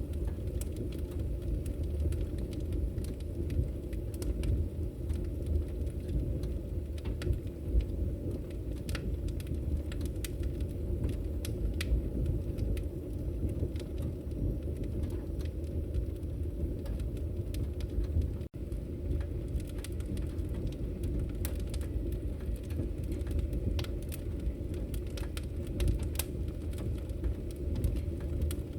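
Wood fire burning in a fireplace: a steady low rumble of flame with frequent sharp crackles and pops scattered irregularly through it. The sound cuts out for an instant about two-thirds of the way through.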